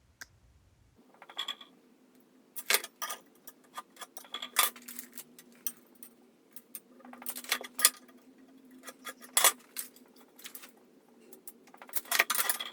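Steel pieces and tools being handled, clinking and knocking irregularly every second or two, over a faint steady hum.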